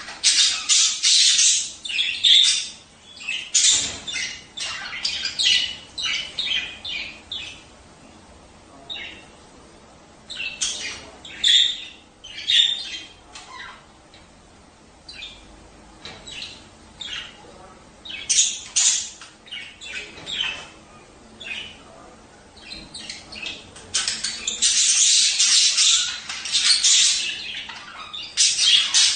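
Budgerigars chattering and squawking in quick runs of short calls, busiest at the start and again near the end, with sparser calls in between.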